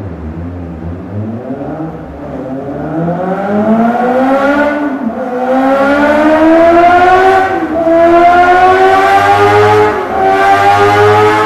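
Honda CBR600RR's inline-four engine accelerating hard through a CS Racing aftermarket exhaust on a dyno. The revs climb steadily, with three brief dips in pitch at upshifts, about a third of the way in, past halfway and near the end, each followed by the rise resuming.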